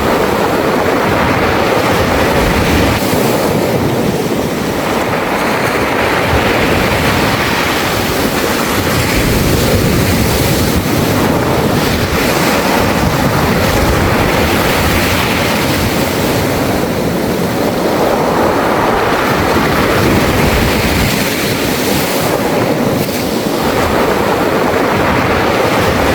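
Waves washing in and out over a beach of smooth round pebbles, the pebbles rattling as the water moves them. The continuous noise swells and eases every several seconds with each wave.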